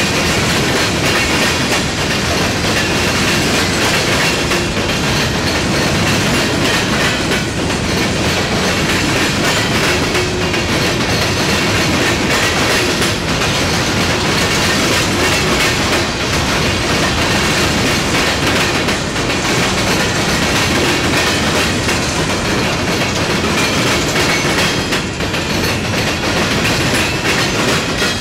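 Empty coke hopper cars rolling steadily past, their steel wheels clattering over the rail joints and diamond crossings.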